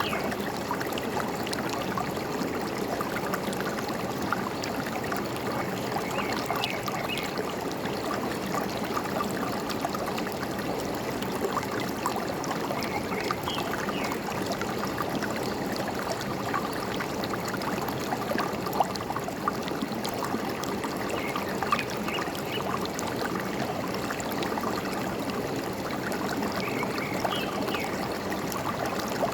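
Forest stream babbling and trickling steadily, with a few faint, brief bird chirps every several seconds.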